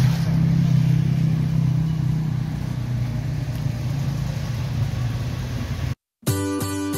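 A motor vehicle engine running steadily, a low even hum. It cuts off suddenly about six seconds in, and after a short silence plucked acoustic guitar music begins.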